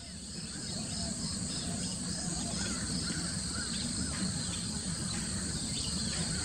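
Outdoor natural ambience: a steady, pulsing insect trill with faint, scattered bird calls over it.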